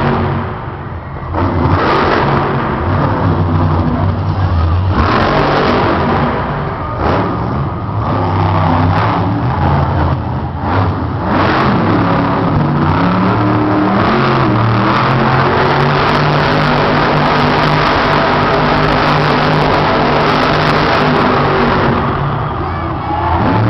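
Monster truck engine revving hard again and again, its pitch climbing and dropping as the throttle is worked.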